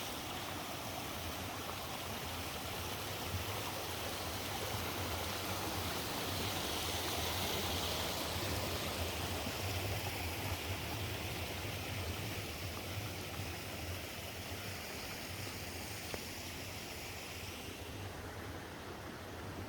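Natural spring water flowing down from the mountain in a stream, a steady rushing that grows a little louder midway and fades near the end.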